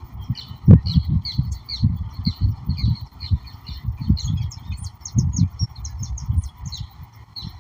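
Several birds calling at once, many short, quick chirps that come thicker in the second half. Under them runs a steady hiss, and loud, irregular low rumbling thuds are the loudest thing throughout.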